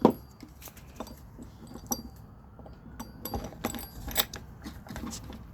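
Irregular clicks, taps and knocks of hand-handled coil-former parts as a Teflon sleeve is fitted inside and the top put on. A sharp knock comes right at the start, then scattered smaller clicks with a busier run about three to four and a half seconds in.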